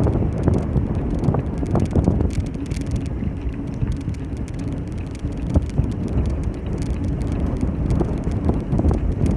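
Wind rumbling on the microphone of a moving bicycle ride, with the bike's tyre and frame noise and scattered small rattles and clicks.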